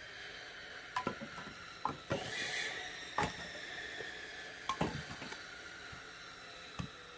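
Scattered light wooden knocks and clunks of oak firewood, about eight over several seconds, some in quick pairs, softer than a full axe blow.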